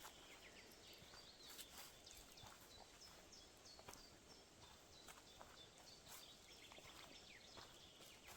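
Faint songbird song in a forest: two spells of quick high chirping notes, one early and one near the end, over a soft steady hiss, with a few faint ticks.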